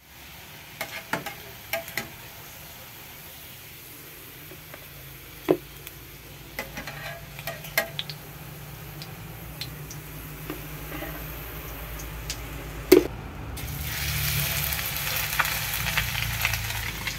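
Chicken-and-egg batter patties sizzling in hot oil in a small frying pan, with a few sharp clicks of a metal slotted spatula against the pan as they are lifted out. Near the end the sizzling grows louder as fresh batter goes into the oil and bubbles.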